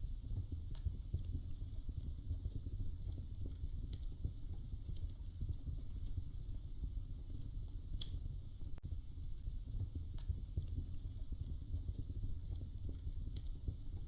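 Wood fire crackling in a fireplace: a steady low rumble broken by scattered sharp pops and snaps every second or two.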